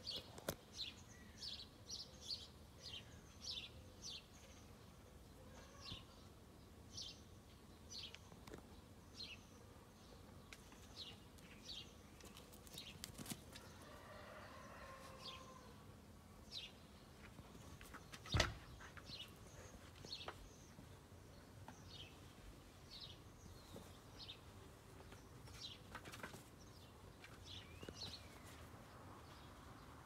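Small birds chirping again and again in short, high, falling chirps, faint throughout. A single sharp knock sounds about eighteen seconds in.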